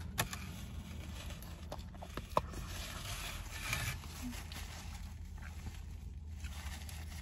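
Close mouth sounds of biting into and chewing a soft sandwich with lettuce: a few sharp little clicks and crunches, the loudest about two and a half seconds in, over a steady low hum.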